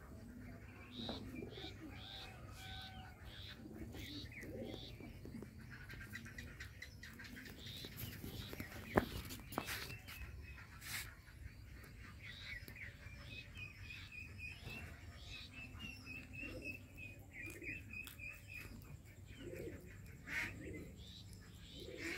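Birds chirping and trilling in the background, with softer low calls underneath, and one sharp click about nine seconds in.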